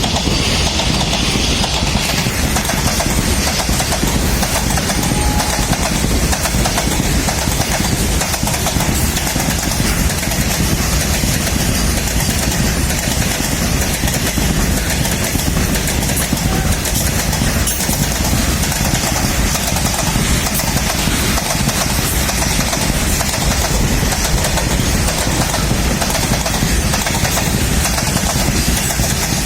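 Goods train running through a station at speed: a loud, steady rumble and rattle of the wagons on the rails that does not let up.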